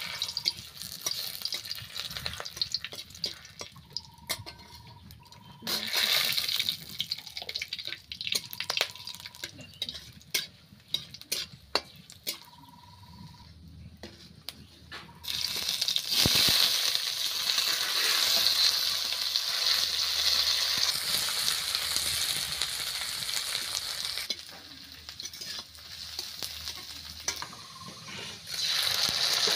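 Whole spices sizzling and crackling in hot oil in a wok. About fifteen seconds in, sliced onions go into the oil and a loud, steady sizzle takes over. It eases for a few seconds, then flares up again near the end as masala paste is added.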